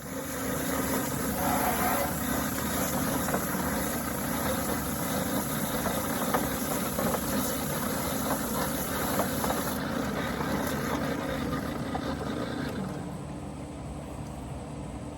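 Sportsman drum-style chicken plucker running, its motor humming steadily under a busy clatter as it spins a scalded bird against its plucking fingers. It starts abruptly and eases off to a lower level near the end.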